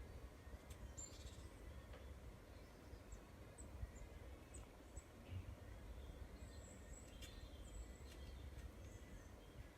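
Faint, short, high bird chirps, a few scattered notes, over a low steady rumble of background noise.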